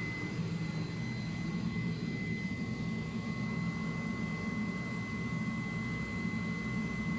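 CNC flatbed cutter running, its pneumatic oscillating knife cutting rubber sheet: a steady, dense machine noise with a constant high-pitched whine over it.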